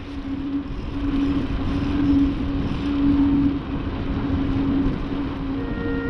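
Road traffic noise heard while riding, with a dense low rumble and a steady hum throughout. A wavering electronic tune comes in near the end.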